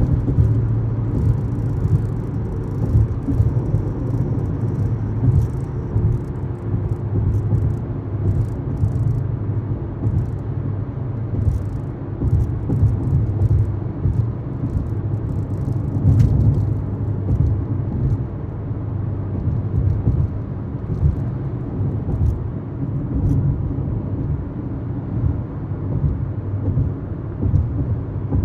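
A steady low engine rumble that wavers in loudness throughout, with a faint high tick now and then.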